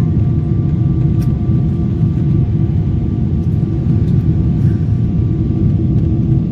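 Cabin noise of a Boeing 777 climbing: a steady, deep rumble of airflow and the GE90 engines at climb thrust, with a few faint steady tones over it.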